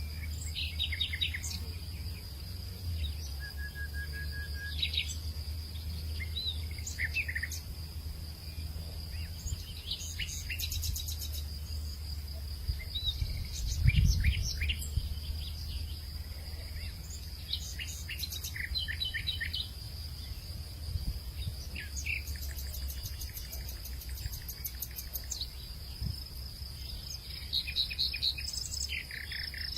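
Wild birds chirping in short, scattered calls over a steady high-pitched insect drone, with a low rumble underneath that swells briefly about halfway through.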